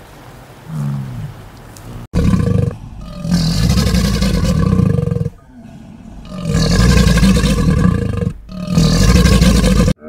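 American alligators bellowing: four loud, rough, rasping roars with a steady droning note under them, the middle two lasting about two seconds each. Before them there is a faint low call.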